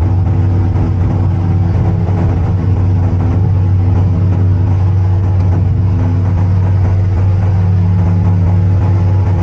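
Light aircraft's piston engine running steadily with an unchanging pitch, a deep drone heard from inside the cockpit during the takeoff.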